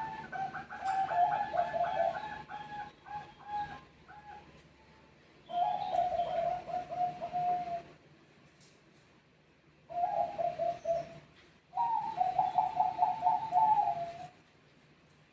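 Zebra doves (Bangkok perkutut) cooing and answering one another: four bouts of quick staccato trilled coos, the first about four seconds long and the others shorter, before the calling stops near the end.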